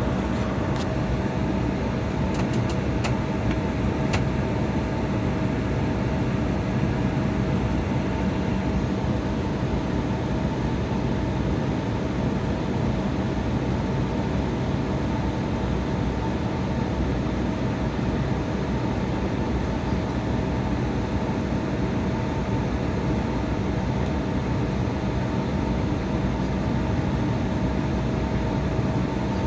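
Steady jet engine noise and cabin hum inside an airliner cabin: an even rumble and hiss with a constant droning tone. A few faint clicks sound in the first few seconds.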